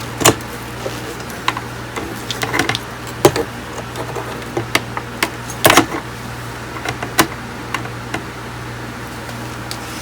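Irregular sharp clicks and light knocks of tools and parts being handled at a workbench, over a steady low hum.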